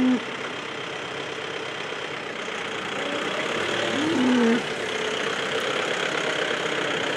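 Tractor engine running steadily while a hay bale is fed out, with a short call that rises and falls about four seconds in.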